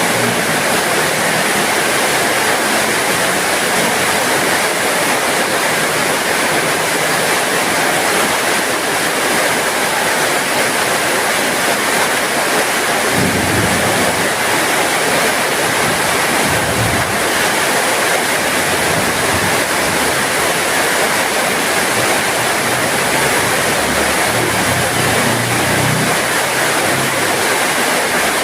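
Heavy rain falling steadily, a dense even hiss. Brief low rumbles come through about halfway and again near the end.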